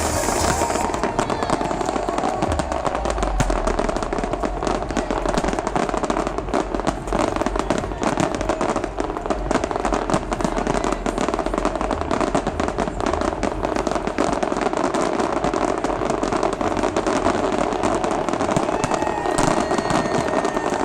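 Fireworks crackling and popping in a rapid, dense stream, over loud electronic dance music with a heavy bass.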